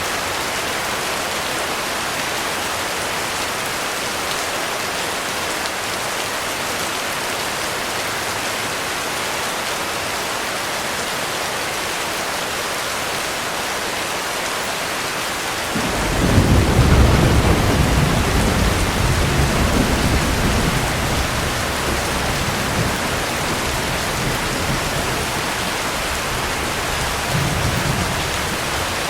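Heavy rain falling steadily. About halfway through, a roll of thunder starts suddenly and rumbles away over several seconds, with a smaller rumble near the end.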